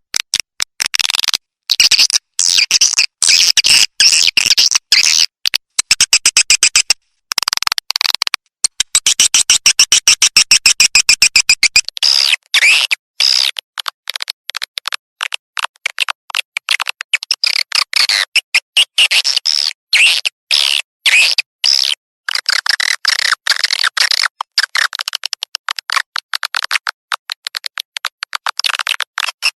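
Swiftlet lure recording of rapid high twittering chirps and clicks in stop-start trains, the calls played to draw swiftlets into a swiftlet house. About twelve seconds in it switches to a thinner-sounding recording with the low end cut.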